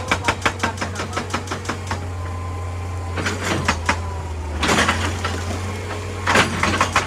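Excavator-mounted hydraulic breaker hammering rock in bursts of rapid, even blows, about nine a second, over the steady run of the excavator's diesel engine. The hammer stops for a few seconds in the middle, broken by two short, louder rasping noises.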